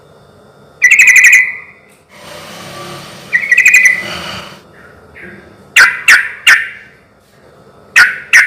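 Sooty-headed bulbul (trucukan) singing: two quick chattering phrases, then a run of short, sharp, loud notes in groups of three and two.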